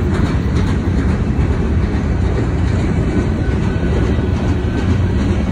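Freight train of flatcars rolling past at close range: a loud, steady rumble of steel wheels on the rails, with a few clacks in the first second.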